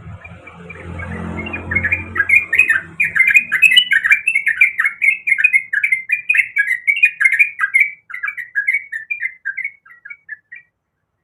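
Yellow-vented bulbul (trucukan) singing a long, fast run of bubbling, chattering notes that tails off and stops about ten seconds in. A low hum lies under the first few seconds.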